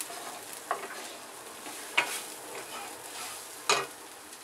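A spoon stirring a frying masala with black beans in a pan, with a steady sizzle. Three sharp knocks of the spoon against the pan come about a second in, at two seconds, and near the end.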